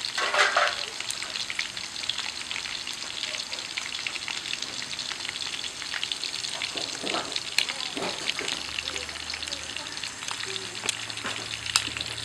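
Oil sizzling and crackling steadily as pieces of marinated, one-sun dried field-rat meat fry in a shallow pan, with a brief louder noise about half a second in.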